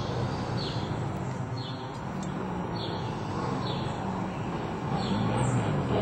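A bird repeating a short, falling chirp about once a second over a steady low hum.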